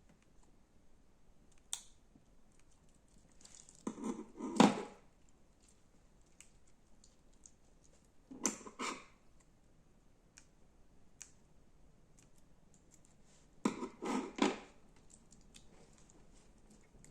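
Slime being pressed and squeezed by hand: three short bouts of a few quick squishes each, about four to five seconds apart, with faint ticks in between.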